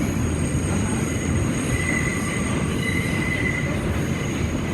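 New York City subway car running on the track: a steady low rumble of wheels and car body, with a high-pitched wheel squeal coming and going from about two seconds in.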